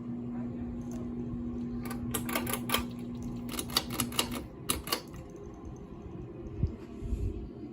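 A quick run of sharp clicks from about two to five seconds in, over a steady low hum that stops a little after four seconds.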